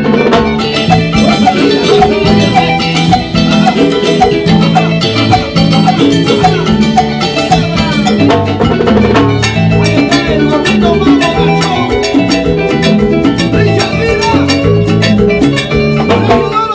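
A band playing an instrumental passage of Latin dance music, with a steady beat of drums and percussion.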